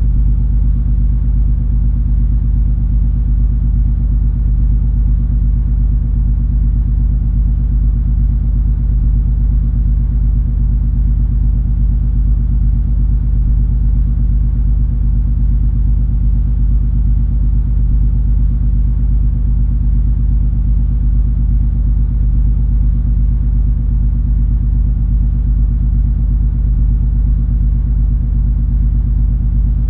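Steady low drone of the cruise ferry MS Color Fantasy under way: the ship's engines running as a deep, unchanging rumble with a steady hum on top.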